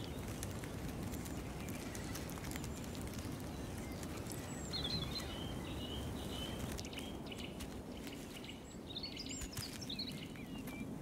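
Outdoor ambience: a steady low background rumble with faint bird chirps, a cluster about five seconds in and another near nine to ten seconds.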